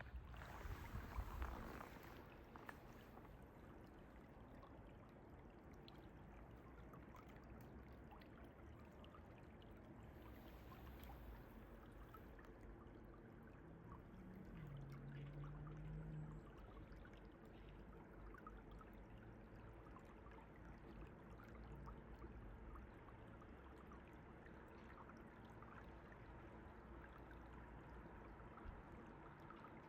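Faint, steady rush of a running mountain stream, with a low rumble in the first couple of seconds and a brief low hum about halfway through.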